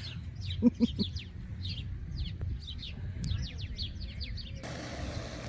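Birds chirping: a quick, steady run of short, falling chirps over a low rumble. Near the end the chirps give way to a steady hiss.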